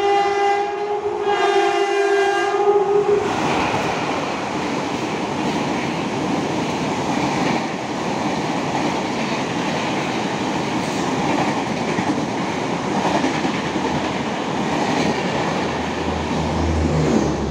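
A train horn sounds one long blast of about three seconds as an express train approaches. Then come the steady rumble and wheel clatter of its red passenger coaches running past along the platform.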